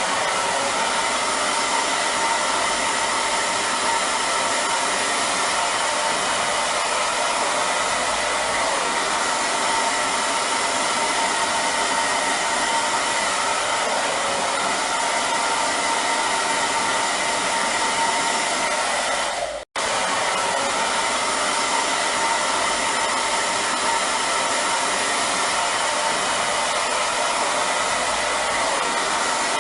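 Hair dryer blowing steadily, a dense airy rush with a faint motor whine. The sound cuts out for an instant about twenty seconds in, then carries on unchanged.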